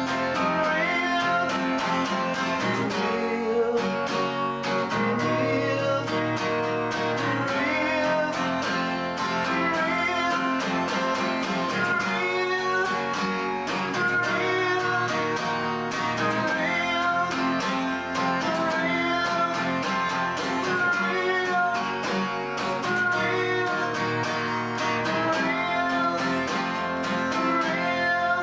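Acoustic guitar playing a song, strummed with picked notes in a steady rhythm, recorded on a basic VHS camcorder microphone.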